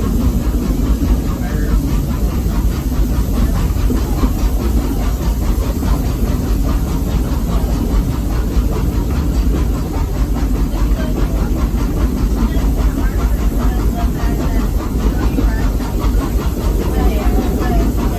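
Steam train running, heard from on board a passenger car: a steady, loud rumble of the wheels on the track.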